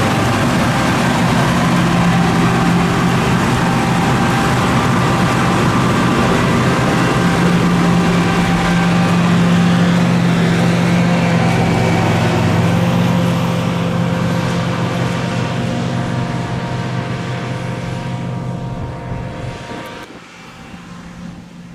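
Fendt 6275 L combine harvester running at working speed, a steady engine drone with machinery noise, fading over the last several seconds and dropping away sharply near the end as it moves off.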